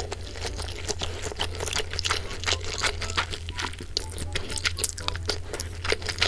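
Close-up eating sounds: someone chewing crispy boneless fried chicken, a rapid run of short crisp crunches.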